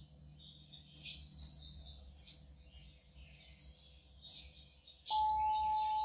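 Small birds chirping in quick repeated trills throughout. About five seconds in, a singing bowl is struck and rings on a single steady tone over the birdsong.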